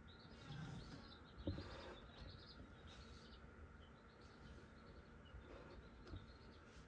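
Faint, repeated bird chirps over a low steady hum, with a single light knock about one and a half seconds in.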